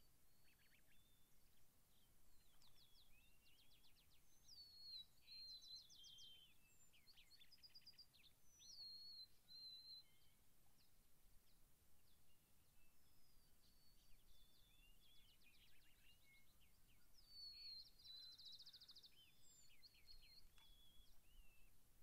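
Songbirds singing faintly: short whistled notes and quick trills, busiest in the first half and again near the end, with a lull in between, over a faint low outdoor rumble.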